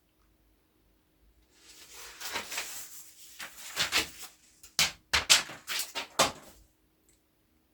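Rustling handling noises, then several sharp knocks or clicks about five to six seconds in.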